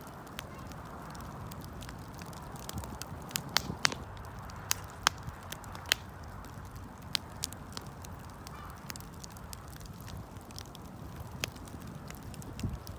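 Wood fire burning, with irregular sharp crackles and pops over a steady low rustle of flames.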